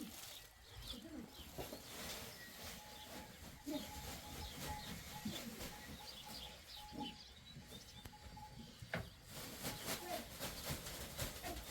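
Faint bird calls, low cooing notes with a few higher chirps scattered through, and a run of light clicks in the last couple of seconds.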